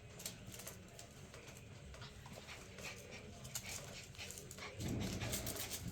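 Six-week-old border collie puppies moving about and playing, with light scratching and clicking throughout and a louder rustle about five seconds in.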